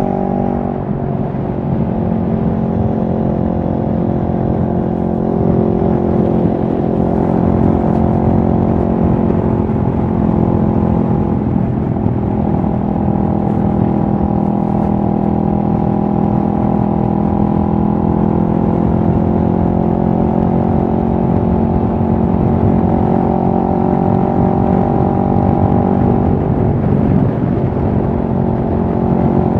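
2023 CFMoto 650NK's parallel-twin engine running steadily at a held speed, loud and continuous. Its pitch shifts a few times as the rpm changes.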